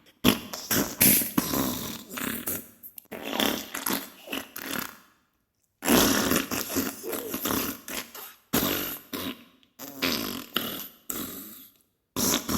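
Diarrhea sound effect: fart sounds in rapid, irregular bursts, with a short silence about five seconds in and another near the end.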